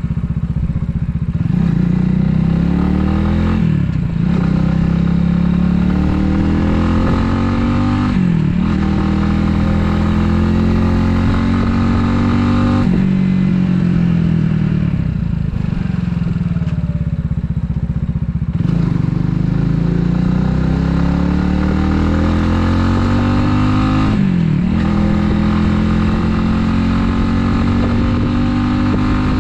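Italika 250Z 250 cc motorcycle engine under way, its pitch climbing and dropping with a short break at each gear change, about five shifts.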